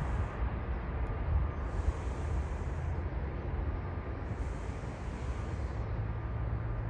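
Wind buffeting the microphone, a low uneven rumble, with a faint steady whine above it.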